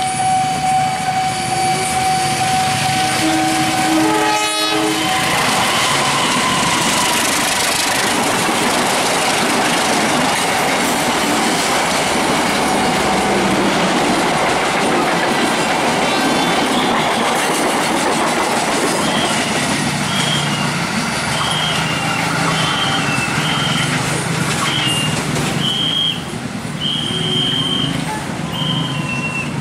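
Diesel-hauled passenger train passing: the locomotive's horn sounds in the first few seconds, then a long steady rush of wheel and rail noise as the coaches go by, easing near the end as the last coach moves away.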